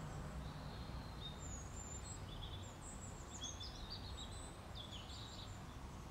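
Faint bird chirps, several short high calls between about a second and a half and five seconds in, over a low, steady background hum.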